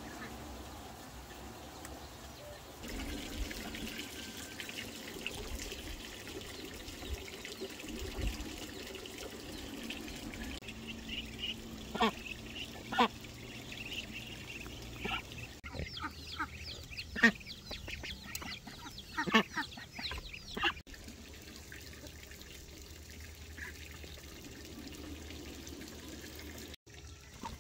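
Ducks quacking in short, scattered calls, most of them in the middle of the stretch, over a steady background.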